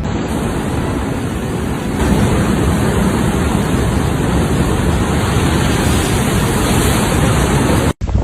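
Steady, loud rushing noise of storm wind and heavy rain, growing louder about two seconds in and cutting off abruptly near the end.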